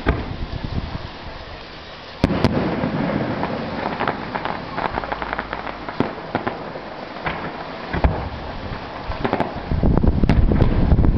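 Fireworks display going off: a run of sharp bangs and crackles, with a loud bang about two seconds in. Near the end a heavier low rumble builds.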